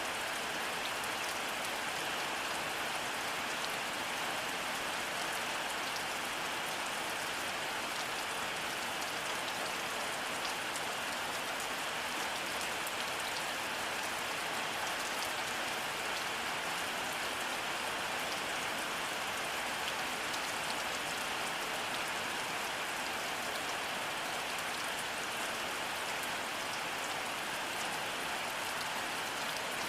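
Steady rainfall: an even hiss with the fine patter of many drops.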